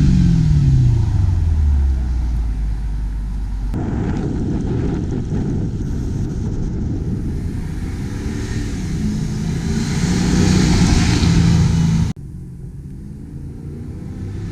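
Mercedes-Benz C55 AMG V8 through a resonator-deleted exhaust: the engine note falls away after a rev, then, after a cut about four seconds in, the car is heard accelerating with its note rising. A sudden cut about twelve seconds in leaves a quieter engine sound.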